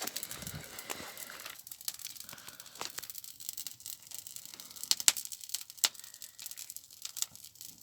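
Burning paper crackling and rustling as the fire catches, with scattered sharp snaps, the loudest about five and six seconds in.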